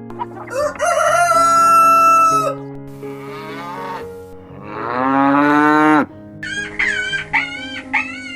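A rooster crows once in one long call, then a cow moos with a rising call, then a cat meows in a quick series of short calls, all over soft background music.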